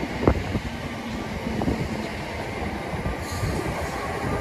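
Approaching electric multiple unit, its rumble and rail noise growing louder toward the end, with scattered low knocks and one sharp knock just after the start.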